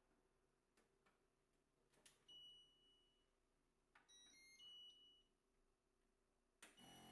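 Faint clicks in a quiet room, then an electronic beep of about a second, followed a second later by a short string of beeps at different pitches, like an appliance's chime. Near the end a louder, steady sound starts abruptly.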